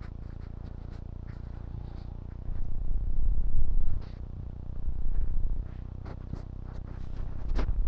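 Wind buffeting the action camera's microphone as a low rumble, swelling in two gusts around the middle, with a couple of sharp clicks near the end.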